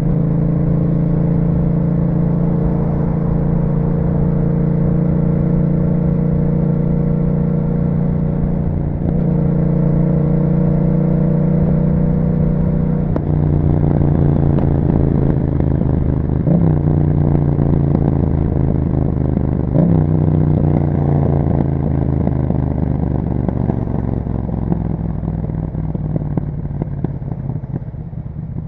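2021 Yamaha MT-07 parallel-twin engine running under way through an Akrapovic exhaust. The note changes step about 9 and 13 seconds in and rises sharply for a moment twice, around 16 and 20 seconds in. After that it slowly falls and quietens near the end as the bike slows.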